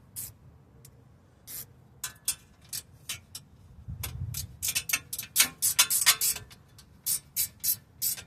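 Metal hand tools clicking and clinking against suspension parts: a string of sharp irregular clicks, sparse at first and crowded together in the middle, with a dull knock about four seconds in.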